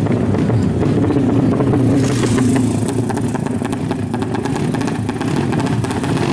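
Yamaha Jupiter Z motorcycle's single-cylinder four-stroke engine, race-built to 200 cc, running steadily.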